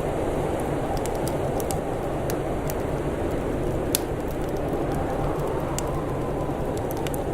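Wood fire crackling with scattered sharp pops, the loudest about four seconds in, over a steady rush of blizzard wind with a faint whistling tone.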